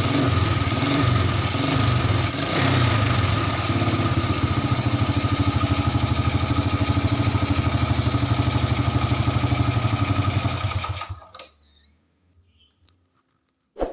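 Honda Astrea motorcycle's four-stroke single-cylinder engine running through an aftermarket oval 'rokok'-style muffler, the throttle varying over the first few seconds before settling into a steady idle; the engine is switched off about eleven seconds in and dies away.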